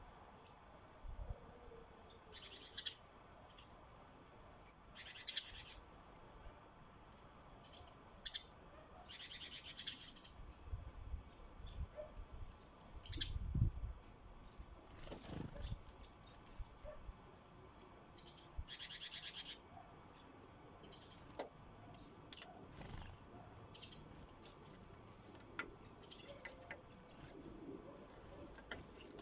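Sparrows at a bird feeder: scattered chirps and short rustling bursts, with a few low knocks around the middle.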